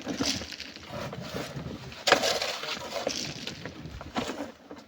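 Rock and sand being broken loose and crumbling, irregular knocks and scraping with one sharper, louder knock about two seconds in.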